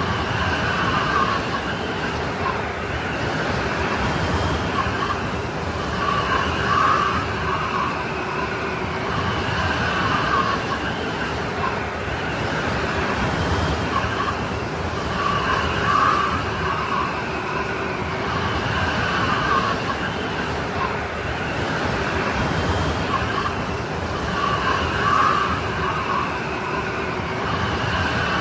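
Strong snowstorm wind blowing steadily, a rushing roar with a howling whistle on top that swells in gusts every several seconds.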